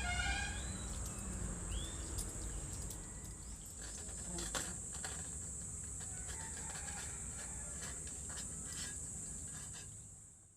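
Background music ends about half a second in. It gives way to faint outdoor ambience with a steady low hum, scattered clicks and a brief rising call from a bird or fowl. The sound cuts off near the end.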